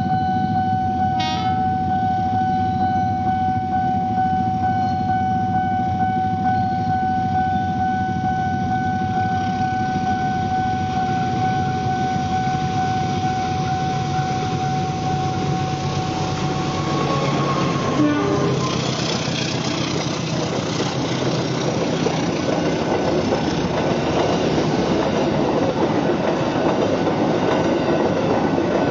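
Diesel locomotive hauling a passenger train, engine running as it approaches, then the carriages clattering over the rails as they pass close by. A steady high tone sounds over the engine and stops a little past halfway, just before the train comes alongside.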